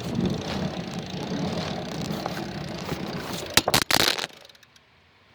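Rattling, rumbling noise of a bike being ridden, with wind on the microphone. About three and a half seconds in come a few loud knocks, then the sound drops almost to silence.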